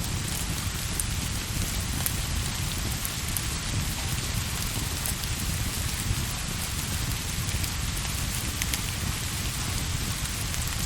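Steady rain falling on a surface, an even hiss with scattered light ticks of drops and a steady low rumble underneath.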